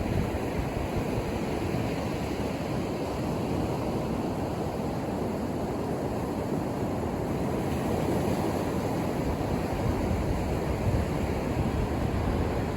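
Ocean surf breaking and washing on a beach, a steady low rush with no separate wave crashes, and some wind on the microphone.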